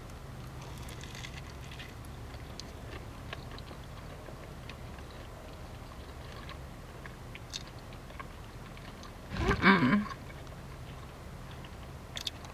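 A person chewing a bite of a crunch wrap, faint crunching and mouth sounds over a steady low hum. About nine and a half seconds in there is a short, louder vocal sound, like a hum.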